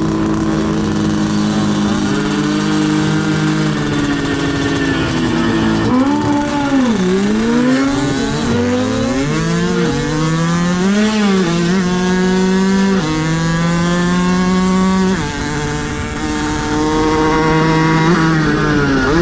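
Motorcycle engine running and revving, its pitch steady at first, then rising and falling repeatedly, with several sudden drops in pitch past the middle like gear changes.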